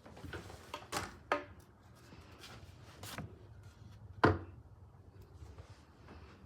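A few short knocks and bumps, the loudest a sharp thump about four seconds in.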